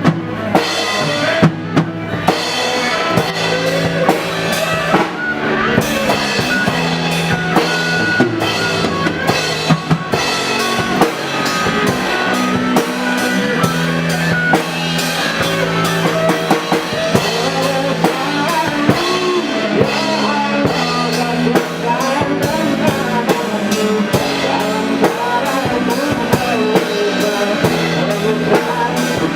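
Live band playing a song, with a drum kit keeping a steady beat under bass and melody instruments.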